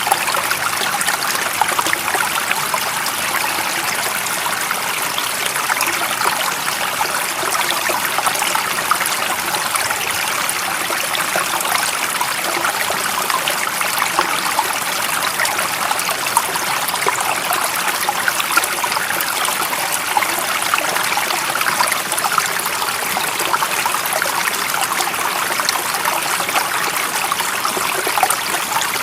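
Running water from a small stream, an even rushing hiss with many small trickles and splashes, at a steady level.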